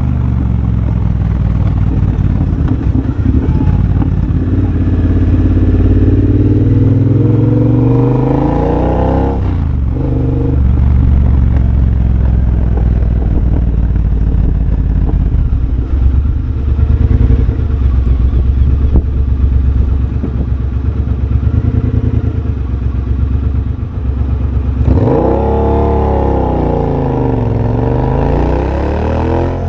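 2023 Triumph Bobber's 1200 cc parallel-twin engine under way through a de-catted X-pipe and Motone shorty exhaust. The revs climb in the first seconds and dip briefly near ten seconds, then settle into steadier running. Near the end they rise sharply, fall away and climb again.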